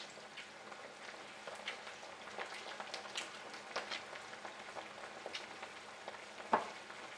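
White beans in chicken broth cooking in a hot pan: a steady low sizzle with scattered small pops and crackles. One sharp knock near the end.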